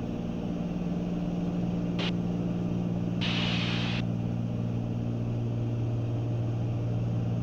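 Cessna 310's twin piston engines and propellers droning steadily in cruise, heard in the cabin, with a short burst of hiss about three seconds in.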